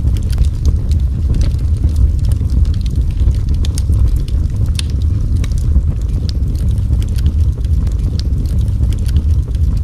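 Wood fire burning in a fireplace: a steady low roar with scattered sharp crackles and pops at irregular intervals.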